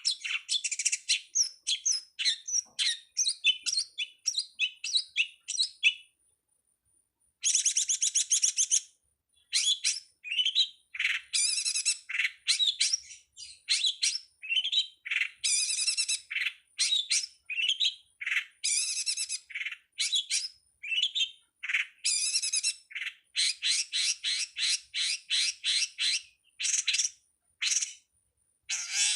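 Long-tailed shrike (cendet/pentet) singing a fast, varied run of chirps and short trills, with a pause about six seconds in.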